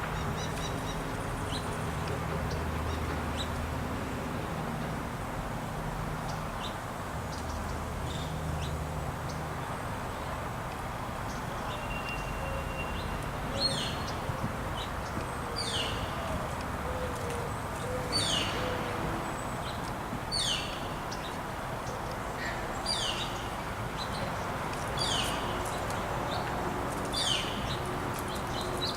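Small songbird giving a short, high call that sweeps downward, repeated about every two seconds from about halfway through, with scattered faint chips before it. Under it runs a steady hiss of background noise, with a low hum in the first third.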